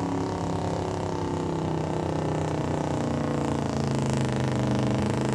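Pulling truck's engine running at low revs, its pitch shifting near the end.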